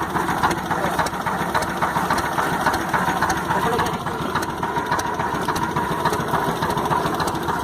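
Small fishing boat's engine running steadily, a fast even chugging with a steady hum.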